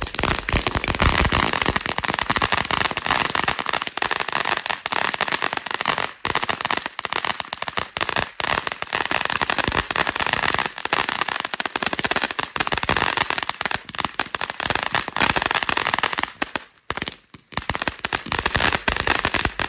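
A consumer ground firework crackling rapidly and continuously, a dense stream of small pops; about three seconds before the end it falters, crackles again briefly, then stops.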